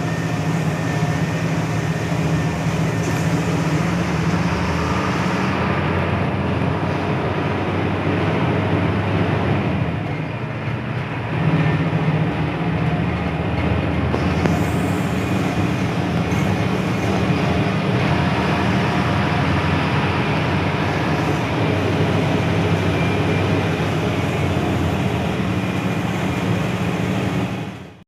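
Hino AK8 bus's front-mounted diesel engine running on the road, heard from inside the passenger cabin as a steady low drone; it eases off briefly about ten seconds in, then picks up again.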